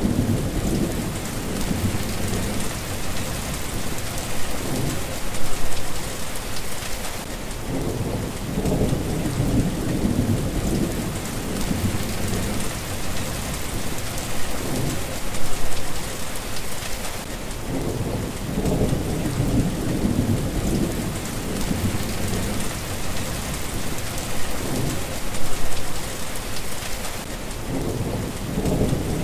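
Steady rain falling, with low rolling thunder rumbles that swell and fade roughly every ten seconds.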